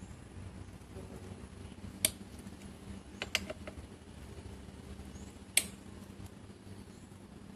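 Suzuki Skydrive 125 scooter's single-cylinder engine running low and steady, its exhaust giving a few sharp pops, about two seconds in, a quick cluster a second later, and once more near the middle: the exhaust backfiring that is the fault to be cured.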